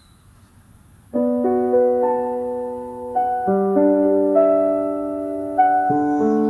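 Slow solo piano music that begins about a second in, with sustained chords and a melody above them, over a faint hiss.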